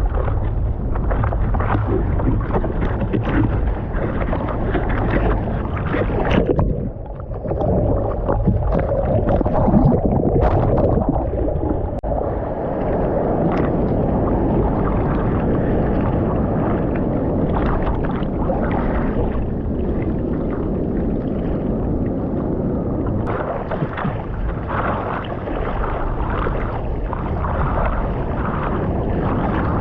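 Rushing, splashing water with wind buffeting the microphone, continuous and loud, dipping briefly about seven seconds in.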